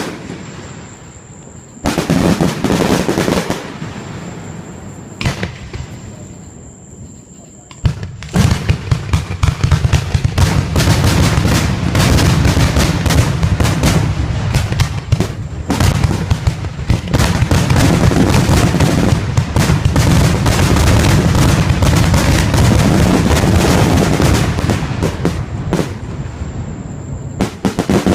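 Aerial fireworks exploding: a few separate bursts at first, then from about eight seconds in a dense, nonstop barrage of rapid bangs.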